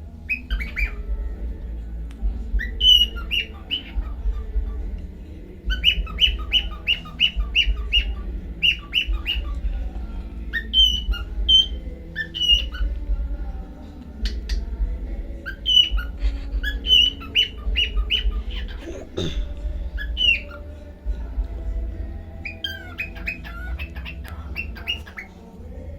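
Pet cockatiel chirping and squawking in quick runs of short, sharp high calls, the runs a few seconds apart, over a steady low hum.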